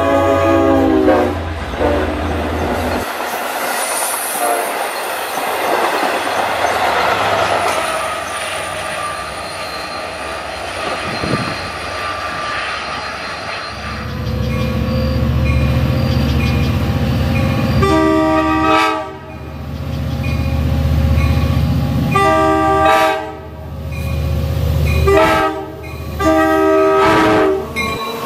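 Long Island Rail Road diesel train: a horn blast at the start, then steady rail and wheel noise. Partway through a heavy diesel engine rumble comes in, and the horn sounds four times, long, long, short, long: the standard grade-crossing warning.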